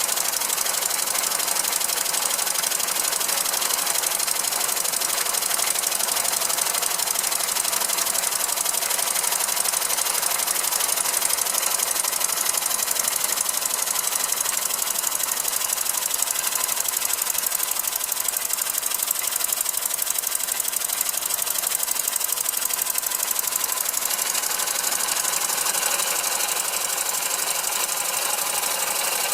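Small model oscillating engine, run on compressed air, driving a tinplate line shaft and the toy machines on it: a steady, fast mechanical clatter that runs evenly without a pause.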